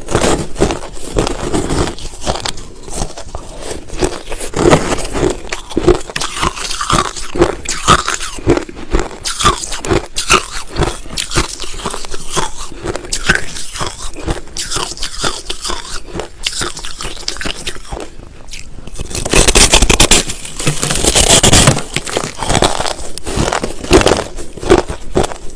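Close-miked chewing of white crushed ice: rapid, crackly crunches keep going almost without a break. About three-quarters of the way through, a louder, denser rush of crunching lasts for about three seconds.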